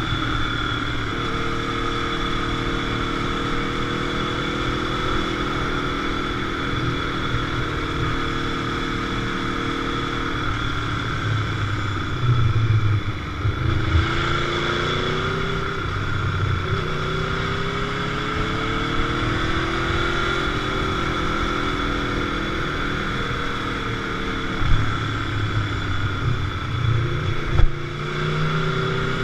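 Motorcycle engine heard on board while riding, over steady wind and road noise. It holds even revs, then about halfway through drops and climbs again as the rider slows and accelerates. Two short knocks come near the end.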